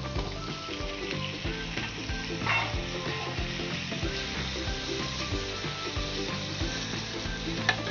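Chopped onion, green chillies and fresh coriander sizzling in hot oil in a nonstick kadhai, stirred and scraped with a wooden spatula. The sizzle is steady, with two brief louder scrapes, one about two and a half seconds in and one near the end.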